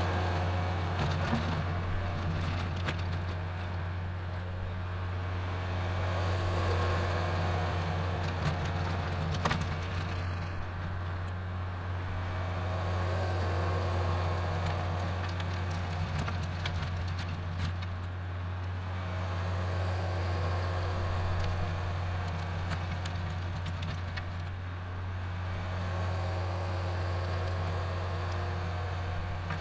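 Kubota L4701 tractor's diesel engine running steadily under load, driving a rear rototiller through the soil, its level swelling and easing every several seconds.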